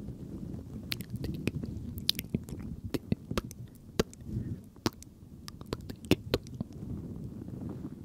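Close-miked ASMR mouth sounds: a string of sharp wet clicks and smacks, thickest through the middle of the stretch, over a low muffled noise.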